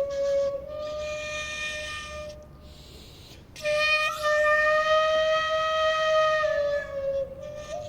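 Flute music: slow, long held notes with small bends in pitch, broken by a pause of about a second in the middle.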